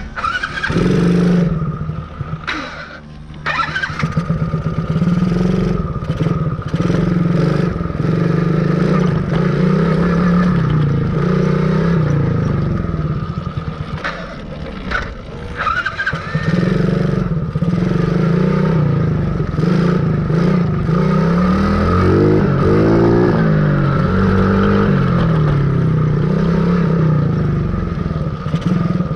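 Dirt bike's motor running while it is ridden, its pitch rising and falling with speed, dipping briefly about three seconds in and again midway.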